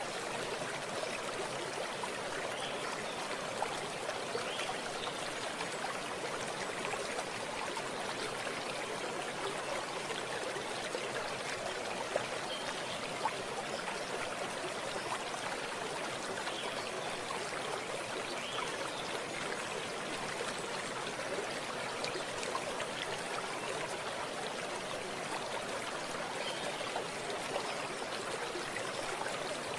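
Running water: a stream flowing steadily, with small splashes and trickles.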